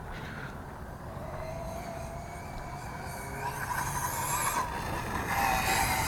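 The brushless electric motor of a 1/8-scale RC truck running on a Castle Mamba X ESC, whining and rising in pitch as it speeds up. It comes in two louder spurts, midway and near the end, each with a hiss of tyres over the ground.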